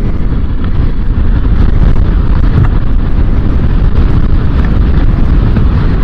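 Strong wind blasting the microphone of a moving motorcycle: a loud, steady low rumble, with the bike's running noise underneath.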